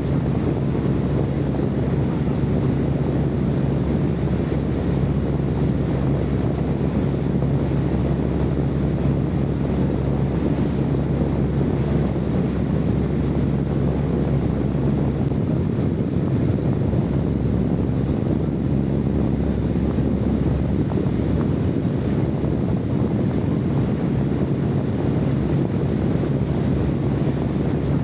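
Steady live-recorded noise, low and rushing, with a constant hum underneath and no change in level.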